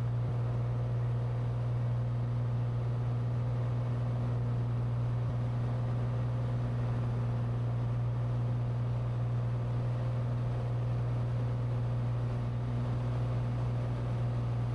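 Cessna 182T's six-cylinder Lycoming engine and propeller droning steadily in flight, heard inside the cockpit, with a strong low hum and no change in pitch.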